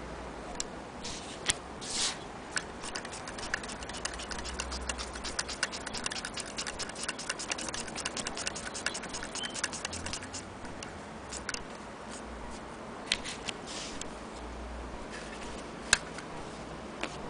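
Antique Willcox & Gibbs sewing machine's mechanism clicking in a fast, even run of ticks as it runs for several seconds. A few louder single clicks and knocks come before and after the run.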